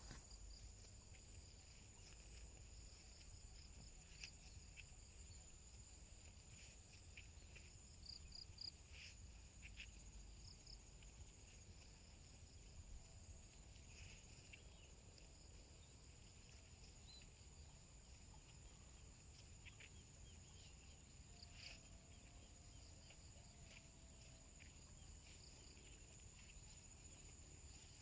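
Faint, steady high-pitched drone of insects in the countryside, with scattered short chirps.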